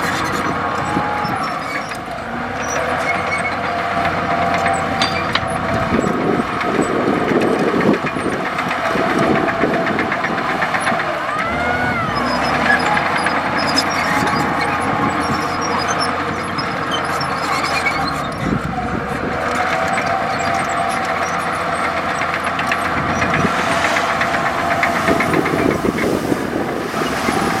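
Komatsu D65E bulldozer's diesel engine running steadily under work, with a cluster of knocks and clanks about six to ten seconds in and a short squeal near the middle.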